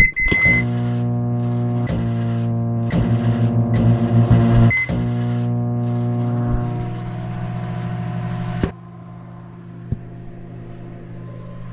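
Microwave oven running: a beep as it starts, then a steady electrical hum with a few clicks and short beeps partway through. Near the end the hum drops off sharply to a much quieter hum.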